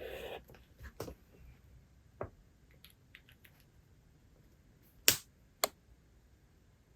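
Small sharp clicks and taps of objects handled on a desk in a quiet room, with a brief rustle at the start and two louder clicks about five seconds in.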